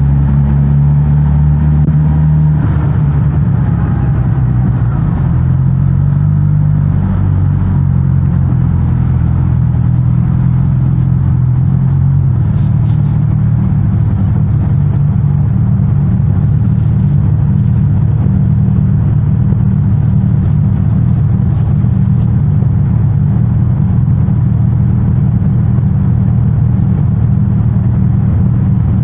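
Suzuki GSX-S1000GT's inline-four engine running through its stock exhaust while riding. The engine note shifts a few seconds in, then holds fairly steady.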